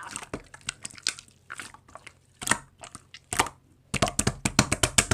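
Slime being squished and pressed, giving irregular sticky clicks and crackling pops, with a fast dense run of them about four seconds in.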